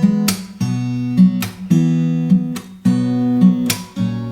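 Acoustic guitar strumming chords in a steady rhythm, with no singing over it.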